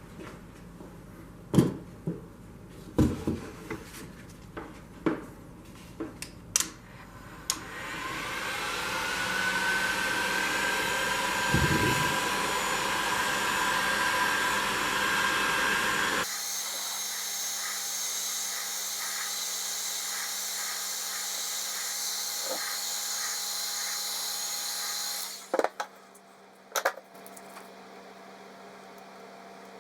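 Milwaukee cordless tire inflator handled with a few clicks and knocks, then switched on: its motor spins up with a rising whine, runs steadily for about seventeen seconds with an abrupt change in tone partway through, and stops, followed by two more clicks. The inflator no longer builds air pressure and is making unusual noises from something broken inside.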